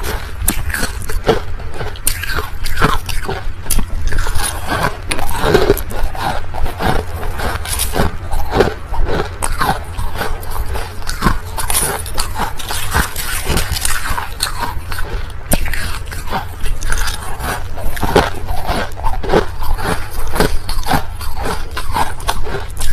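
Crushed ice being bitten and chewed close to the microphone: a dense, irregular run of sharp crunches.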